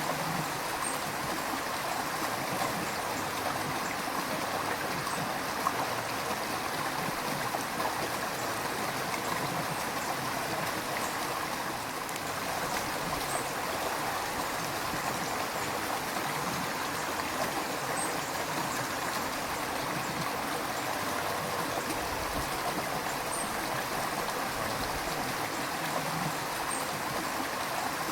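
River water flowing over rocks, a steady babbling and gurgling rush with no change in level.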